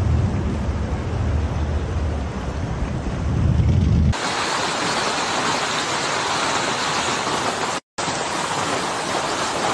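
Storm audio: a low rumble of thunder and wind for about four seconds, then an abrupt cut to the steady, even hiss of heavy rain pouring down, broken by a split-second dropout about eight seconds in.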